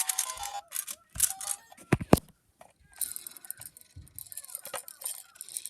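Toys being handled: a short electronic toy tune stops just after the start, followed by sharp plastic clicks and knocks and then light clattering and rattling.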